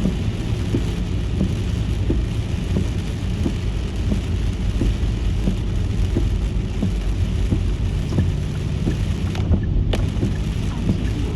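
Car driving in the rain: a steady low road rumble under a hiss of rain and tyre spray, with many small taps of raindrops. The hiss drops away for about half a second near the end.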